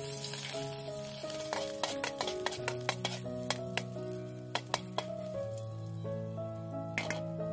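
Food sizzling in hot oil in a wok, with a metal spatula stirring and clinking against the pan in a quick run of strikes from about one and a half seconds in until about five seconds in. Soft background music with held notes plays underneath.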